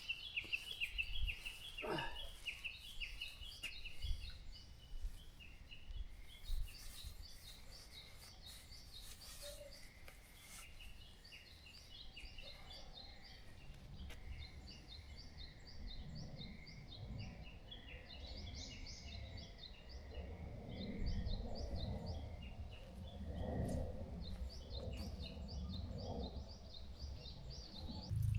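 Wild birds chirping and singing in short repeated phrases over a low steady background noise, with a brief falling whistle about two seconds in.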